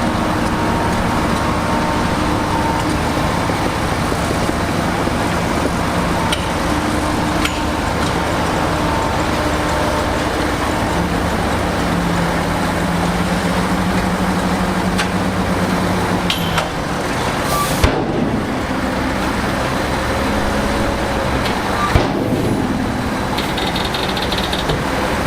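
Heavy diesel earthmoving machinery, a bulldozer or dump truck, running steadily with its engine pitch shifting slightly. Two sharp knocks come in the last third.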